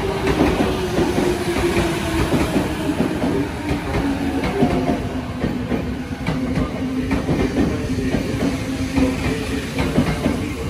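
Electric commuter train pulling in slowly on the adjacent track, its motor whine falling steadily in pitch as it brakes, over rumble and wheel clatter on the rails.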